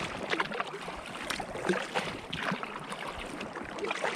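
Kayak paddle dipping and pulling through canal water, with irregular splashes and drips around an inflatable kayak.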